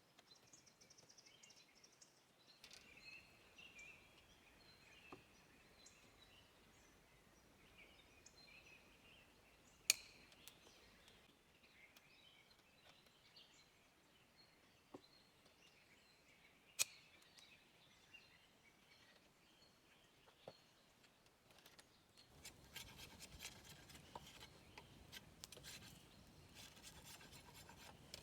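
Faint birdsong with a couple of sharp clicks. Near the end, a rapid rasping scrape starts up.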